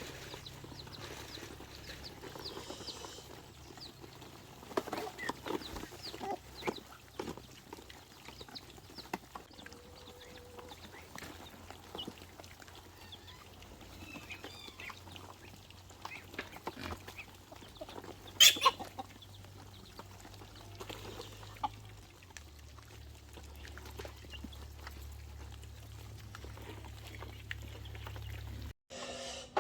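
Domestic chickens clucking on and off, with scattered short calls and one louder sharp sound about two-thirds of the way through.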